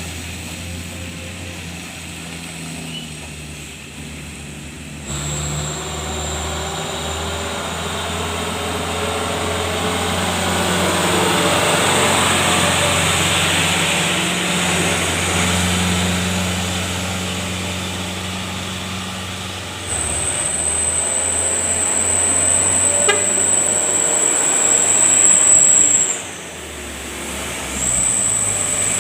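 Heavy road traffic: truck engines running as vehicles pass close by, one passing loudest around the middle. A thin, high, steady whine comes in about two-thirds of the way through and again near the end.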